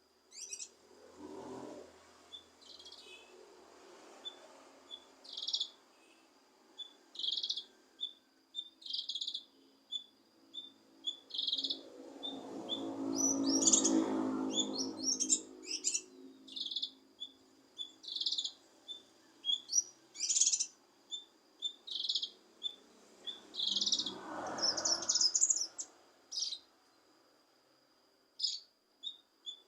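Cucak kinoi singing: a long run of short, high chirps and quick trilled phrases, coming every second or so. A louder, lower-pitched sound swells up around the middle and comes again briefly near the end.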